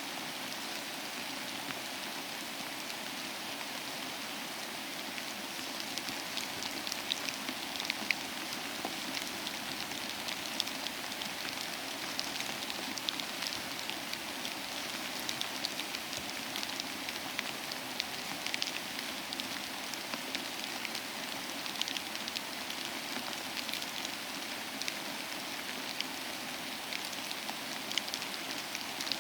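Steady rain falling, with many close, sharp drops ticking individually over the hiss, the ticks growing thicker about six seconds in.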